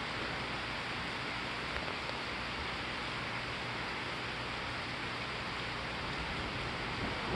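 Steady hiss of rain during a thunderstorm. A low rumble of thunder begins to build right at the end.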